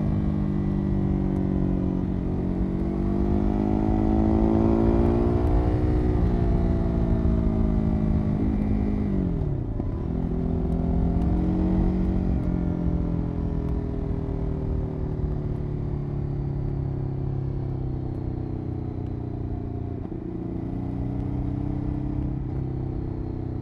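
Ducati 821 Testastretta L-twin engine running through its exhaust. The pitch climbs over the first several seconds, falls sharply about nine seconds in, rises again briefly, then slowly sinks, with a short dip near the end.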